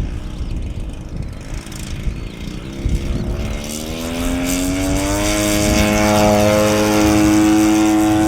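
Radio-controlled model P-47 warbird's engine and propeller throttling up: the pitch rises over a couple of seconds from about three seconds in, then holds a steady high note at high power.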